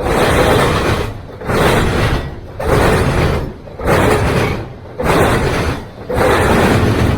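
Freight train cars passing close by: a loud, rumbling rush that swells and dips about once every second and a bit, as each car goes by and the gap between cars follows.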